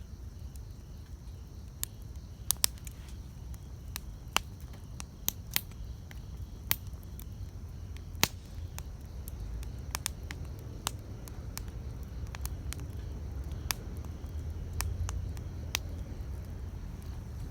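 Wood campfire crackling: irregular sharp pops and snaps, a few of them loud, over a low steady rumble.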